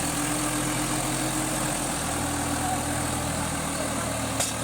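Tractor engine idling steadily, with a brief click about four seconds in.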